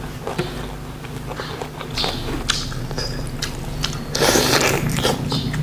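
Close-miked eating: crisp bites and wet chewing clicks, with a louder, longer crunch about four seconds in.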